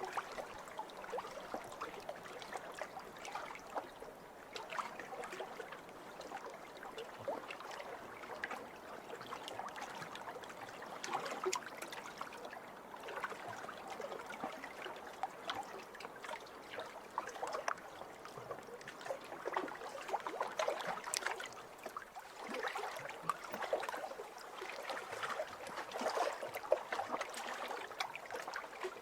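Small waves lapping over pebbles, the water washing in and draining back with many small clicks and rattles of stones, swelling every few seconds.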